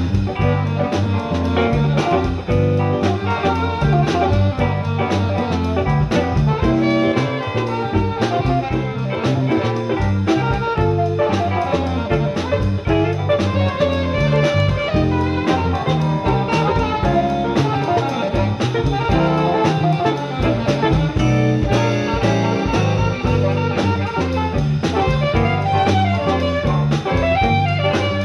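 A live jazz-funk band playing an instrumental passage: guitar, saxophone and brass over a steady drum-kit beat.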